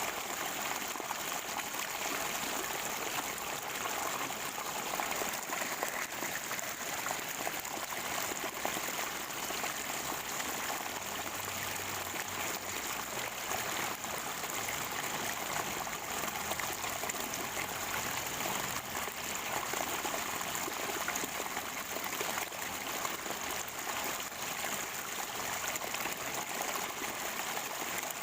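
Water from a natural spring gurgling and trickling in a steady stream.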